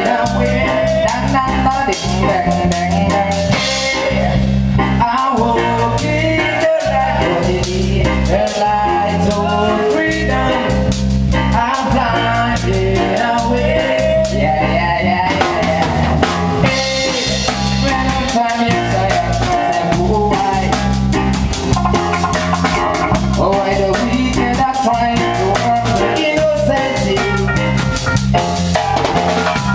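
A live band playing an up-tempo instrumental passage: a drum kit keeping a busy beat over a repeating bass line, with other instruments above.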